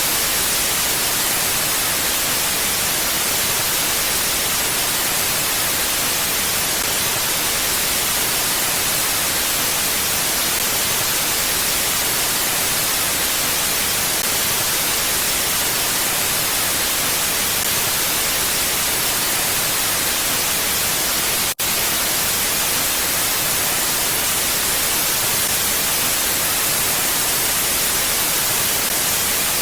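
Steady, even hiss of wind ambience, brightest in the treble, with no gusts or swells. It cuts out for a split second about 22 seconds in.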